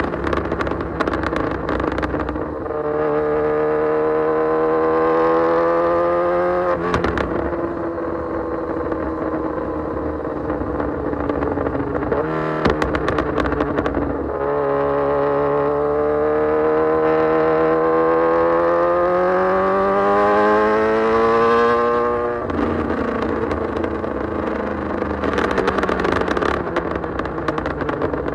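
Kawasaki Z900's inline-four engine through an Austin Racing full exhaust, pulling hard with its pitch climbing, then dropping sharply about seven seconds in. It climbs again in a long rise to about 22 seconds, then falls away as the throttle closes. Short spells of crackling come once midway and again near the end.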